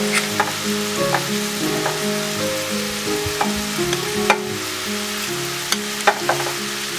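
Diced vegetables sizzling in oil in a frying pan as cooked rice is spooned in on top, with a dozen or so sharp clicks of a metal spoon knocking against the steel saucepan. Soft background music plays underneath.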